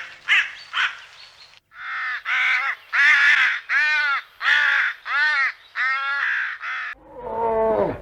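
A bird calling over and over: a few short quick calls, a brief pause, then a run of louder calls at about two a second, each rising and falling in pitch. Near the end a different, lower animal call slides downward.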